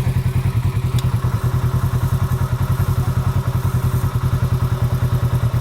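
Off-road vehicle engine idling with a steady, evenly pulsing low note. There is a single sharp click about a second in.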